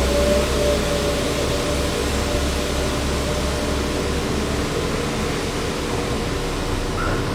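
Diesel train engine running steadily, with a faint whine over it that fades out after a few seconds.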